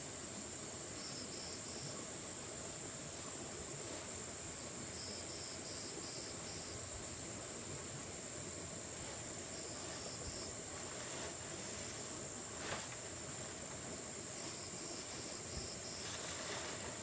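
Insects, crickets or cicadas, in a steady high-pitched chorus, with a few short bursts of a faster pulsed chirping call. A single sharp click sounds about two-thirds of the way through.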